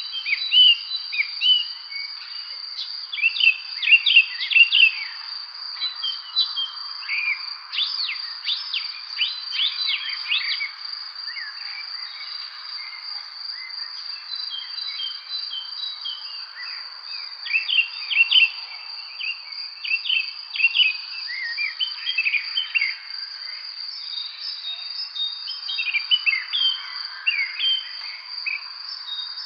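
Evening chorus of spring songbirds, many birds chirping and singing in quick, overlapping phrases that come and go. Underneath is a steady, unbroken high insect trill.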